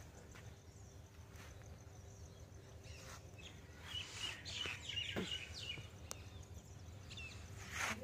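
Birds chirping: a few short, high chirps cluster about four to five seconds in, over faint steady outdoor background noise.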